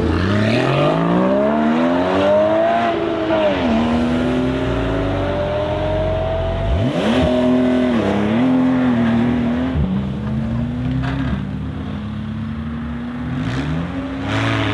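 Sports car engine accelerating hard through the gears: the engine note climbs, drops sharply at each upshift, then climbs again, several times over.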